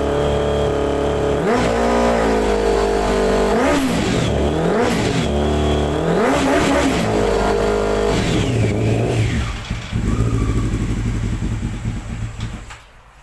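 Honda 600cc motorcycle engine idling, then revved up and let fall back about five times. It settles again and shuts off near the end.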